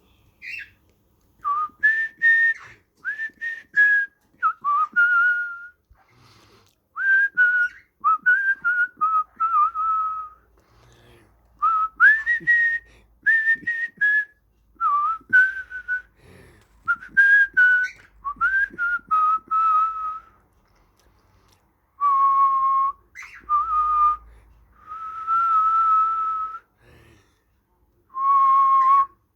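Whistling in short phrases: clear notes that swoop up and level off, with pauses between phrases and a few longer held notes in the second half.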